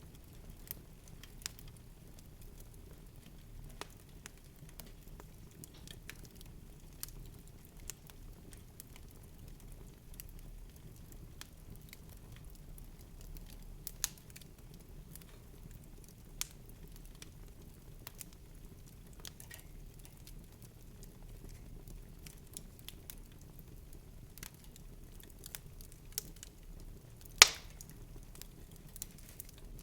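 Relaxation ambience of soft, scattered crackles and clicks over a low steady rumble, with one loud sharp snap near the end.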